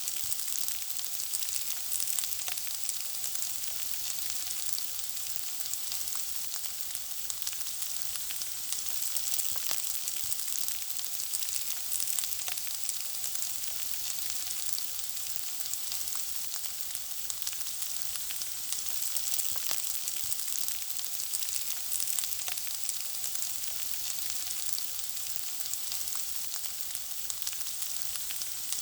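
Food frying in a pan, sizzling steadily with a dense, constant spatter of fine crackles.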